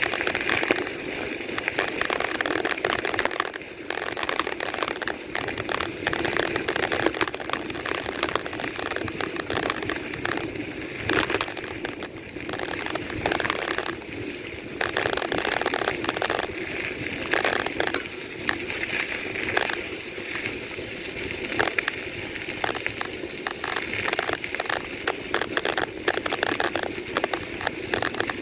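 Bicycle riding noise: tyres on a rough path with continuous crackling and clatter, uneven in loudness.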